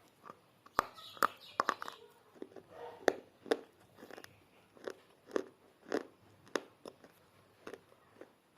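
A person biting into and chewing pieces of baked clay pot. A burst of sharp crunches about a second in is followed by steady chewing crunches about twice a second.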